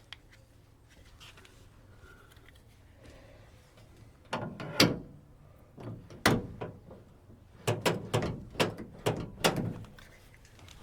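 Door latch mechanism of a 1963 Chevrolet C10 pickup being worked: sharp metallic clacks and knocks, a couple around the middle and then a quick run of about six, as the newly fitted latch and door are tried out during adjustment.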